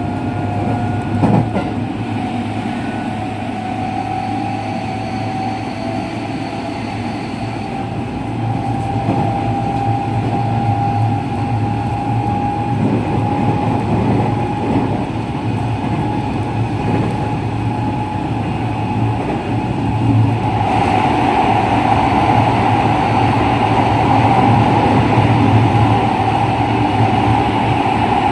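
JR West 207 series EMU running, heard from inside the car: a steady wheel-on-rail rumble under the whine of its original, pitch-unchanged traction motors, which slowly rises in pitch. There is a short knock about a second in, and the whine and rumble grow louder about twenty seconds in.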